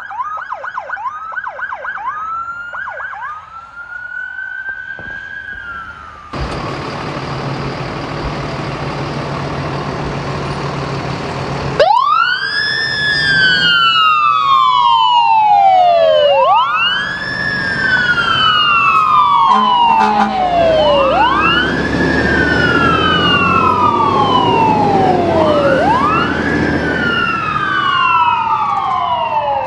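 Emergency vehicle sirens: a fast yelp giving way to a slower wail, then a sudden change to traffic and engine noise. About halfway in, a loud wail siren comes in, rising quickly and falling slowly about every four and a half seconds, with two sirens slightly out of step.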